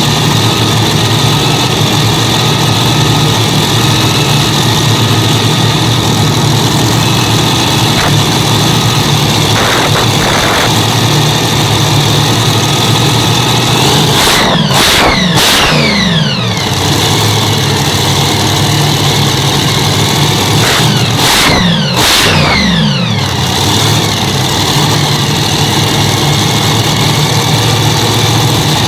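Hemi V8 engines of a tractor-pulling machine idling loudly on an engine test. The throttle is blipped twice, about halfway through and again several seconds later, and each time the revs fall back to idle.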